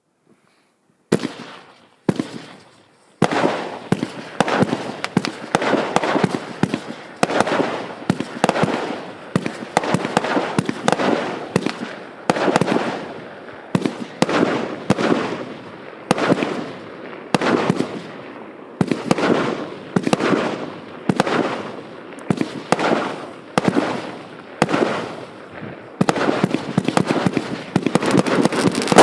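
A 94-shot firework battery (cake) of 0.8-, 1- and 1.2-inch shots being set off. After a short silence a first shot goes off, then shots follow one after another, each a sharp report trailing into crackle, roughly every half second to second. Near the end they come rapidly in a dense volley.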